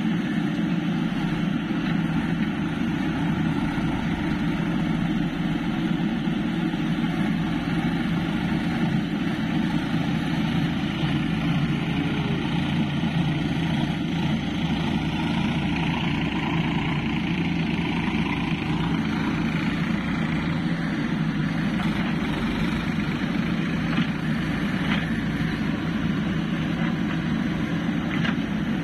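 A steady engine running at a constant pitch and level, without revving.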